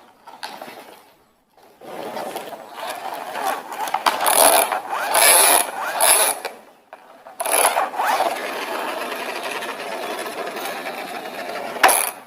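Large toy vehicle driven along a hard floor: its plastic wheels roll and rattle. It runs twice, with a short break about seven seconds in.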